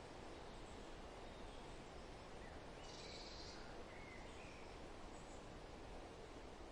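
Steady forest wind noise with faint, brief bird chirps scattered through it and one short, brighter high call about halfway.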